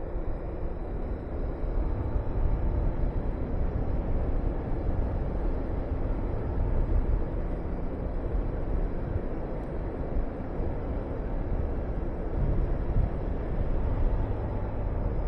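Wind rushing and buffeting over the camera microphone while riding a Honda VTR250 motorcycle, its V-twin engine running under the wind noise. The rush grows louder about two seconds in.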